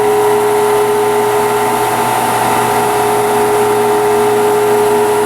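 Steady hum of a Fadal vertical machining center standing under power, with its Dowfrost pump and chiller running. It carries a constant whine-like tone and does not change.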